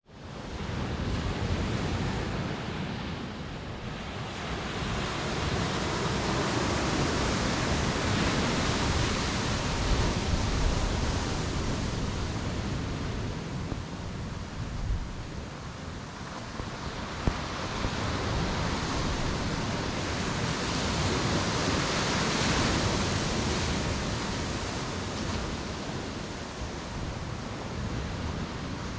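Ocean surf washing onto a beach, a steady hiss that fades in at the start and then swells and eases as the waves come in, louder twice.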